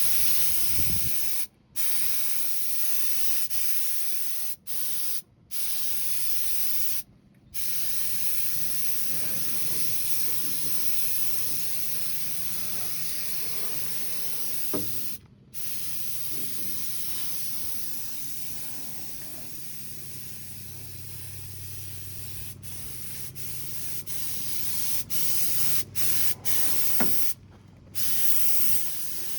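Compressed-air paint spray gun hissing steadily as it sprays paint. The hiss cuts off briefly several times where the trigger is let go, then starts again.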